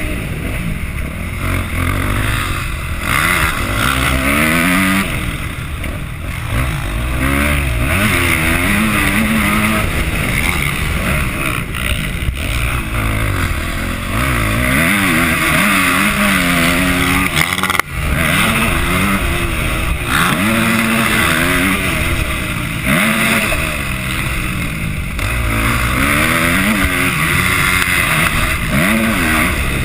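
Yamaha motocross bike engine revving hard and easing off again and again as it accelerates, shifts and slows through the lap, with a steady rushing noise underneath. About eighteen seconds in, the sound breaks off for a moment.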